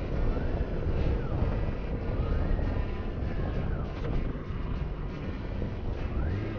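Motorcycle engine under way, its pitch climbing and dropping several times as it revs through the gears, over heavy wind rumble on the microphone.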